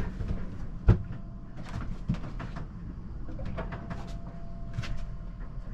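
Knocks, clicks and creaks of a small sailboat rolling at anchor, with one sharp knock about a second in and a faint thin creak-like tone held through the second half.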